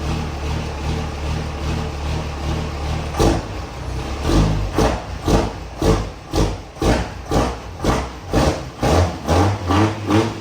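Truck engine with a lumpy camshaft idling, running steadily at first, then from about three seconds in loping and chopping in an even rhythm of about two pulses a second.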